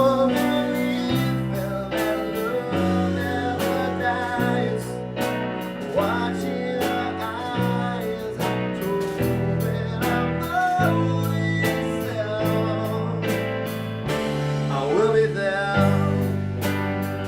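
Live band playing a song with a singer's voice and guitar over a steady drum beat and a bass line that changes note about every second.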